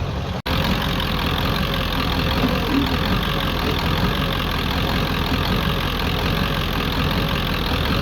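Ford 7.3L Powerstroke turbodiesel V8 idling steadily, heard close up at the engine bay. The sound drops out briefly about half a second in.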